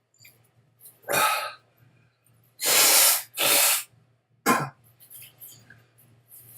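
A man breathing heavily through his mouth against the burn of a superhot chili pepper: a short breath about a second in, then a long, loud in-and-out pair near the middle, and a sharp short puff after it.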